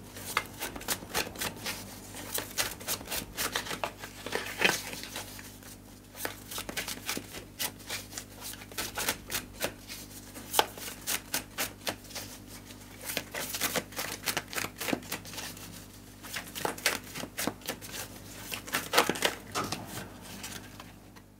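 A deck of scripture cards shuffled by hand: rapid, irregular papery clicks and taps throughout. Near the end a card is drawn and laid down on the table.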